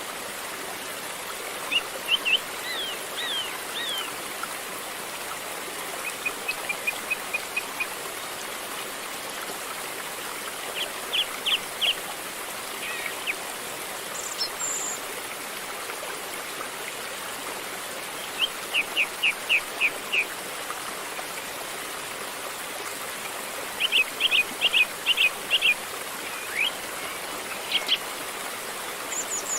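River water flowing steadily, with birds calling over it: several short series of quick repeated notes, and a single higher call about halfway through.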